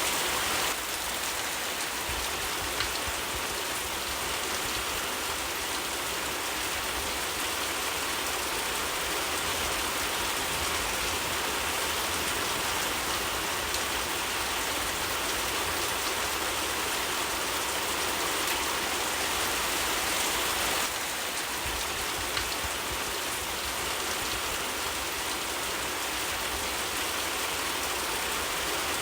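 Steady rain falling, a continuous even hiss of drops with no distinct events.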